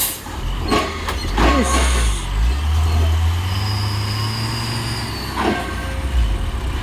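Heavy truck's diesel engine pulling uphill with a deep, loud drone that swells in the middle, with a short hiss of air about one and a half seconds in.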